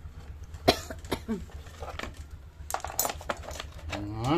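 Metal tools and parts clinking as they are handled and set down: a sharp clink under a second in and a quick cluster of clinks around three seconds.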